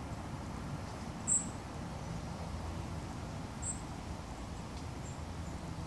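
Short, thin, high-pitched bird calls from a small garden bird: two sharp ones about a second and three and a half seconds in, a fainter one near the end, over a steady low background rumble.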